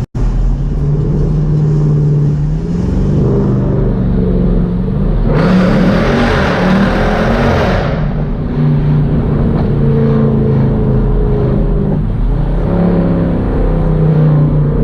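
Jeep Grand Cherokee SRT with a muffler-deleted exhaust accelerating, its engine pitch climbing and stepping through the gears several times. A loud rushing noise comes in from about five to eight seconds in.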